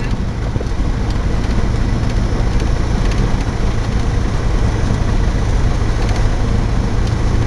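Cessna 172's engine and propeller running at a steady drone, with a strong low hum.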